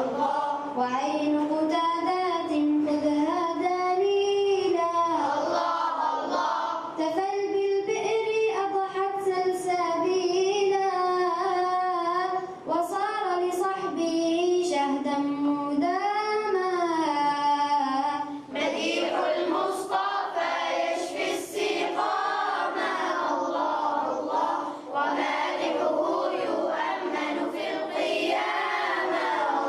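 Young voices singing madih, an Arabic devotional song in praise of the Prophet Muhammad, in a continuous melodic line. About two-thirds of the way through, the sound thickens as several voices sing together like a small choir.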